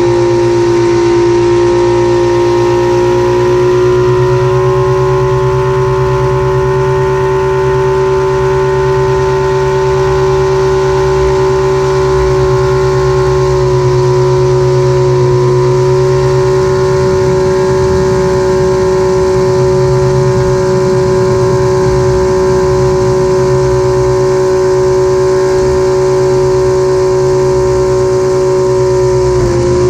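Thunder Mustang air racer's V12 piston engine running steadily at high power, with a strong held engine tone over a low rumble and hardly any change in pitch.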